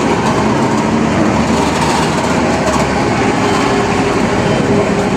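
Steady, loud mechanical rumble, like passing heavy traffic or a running engine, with a few faint steady tones in it.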